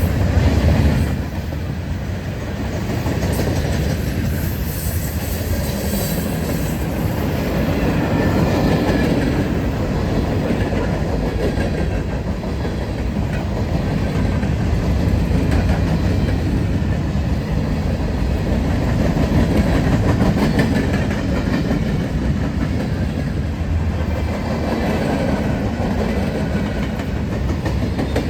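A train's cars rolling past at close range: a steady rumble with the wheels clicking over the rail joints.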